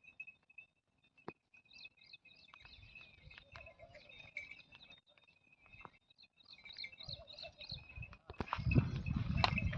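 Birds chirping in runs of short repeated calls over a steady high-pitched trill. Near the end a louder, low rustling noise comes in.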